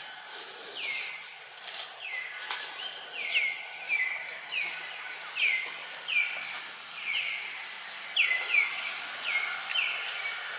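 A bird repeating a short call that slides down in pitch, about one and a half times a second, over a light outdoor hiss, with a few faint clicks in the first few seconds.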